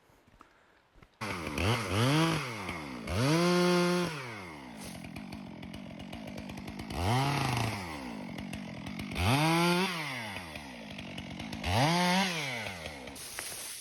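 Stihl MS 462 chainsaw starting suddenly about a second in, then revving up and falling back to idle about five times while cutting up a storm-felled tree.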